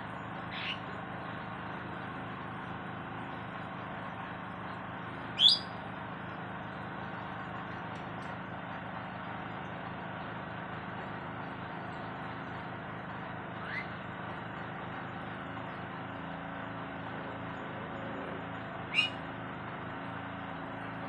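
Four short, high-pitched bird chirps, spaced several seconds apart, the second and the last much louder than the others, over a steady background hum.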